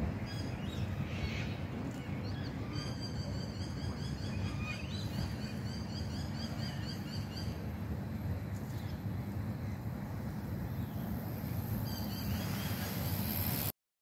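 Birds calling outdoors over a steady low wind rumble on the microphone; from about three seconds in, one bird gives a run of quick, high repeated notes lasting several seconds. The sound cuts off suddenly near the end.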